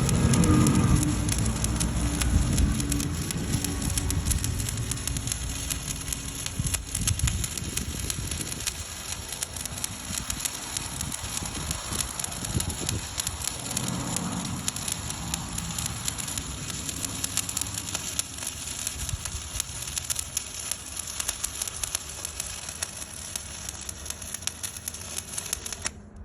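Stick welding with 1/8-inch 7018 rod at about 124 amps: a steady arc crackle that cuts off suddenly near the end, with a low rumble under it in the first few seconds.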